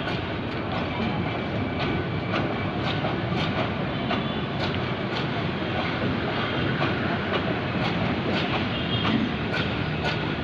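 Train running on its rails: a steady rumble with sharp wheel clicks from the rail joints, about twice a second, a clickety-clack rhythm.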